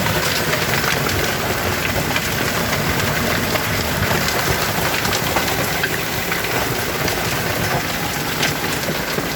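Hailstorm: hailstones pelting down hard, a dense steady rush with many sharp ticks of stones striking.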